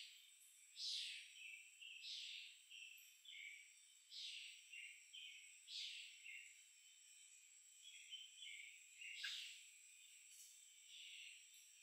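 Faint bird chirping: short, high calls repeating about once a second, over a thin steady high tone.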